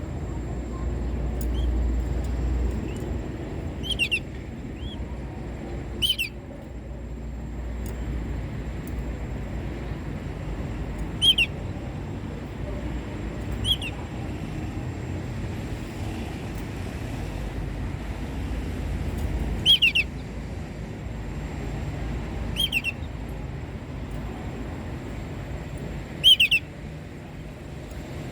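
Domestic canary giving short single chirp calls, about eight of them spaced several seconds apart, over a steady low background rumble.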